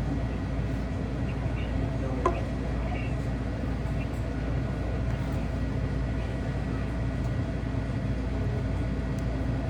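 Steady road and engine rumble inside a moving car's cabin, with a single sharp click about two seconds in.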